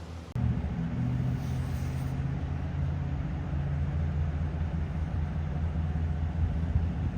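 A motor vehicle's engine idling with a steady low rumble, starting abruptly a moment in.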